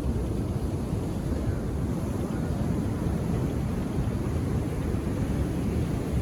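Indian Ocean surf breaking and washing on a beach, a steady low rumble of waves with no distinct single wave standing out.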